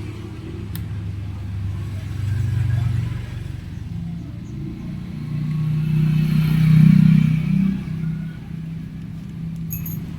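Low engine rumble of a motor vehicle, swelling louder twice, the second time more strongly, with a couple of faint clicks.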